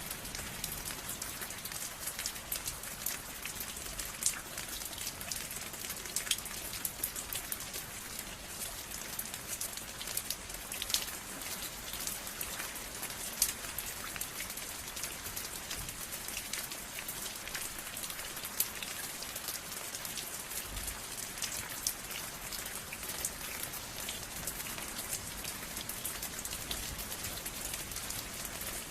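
Steady rain falling, an even hiss with many sharp individual drop ticks scattered through it, some louder close drips standing out.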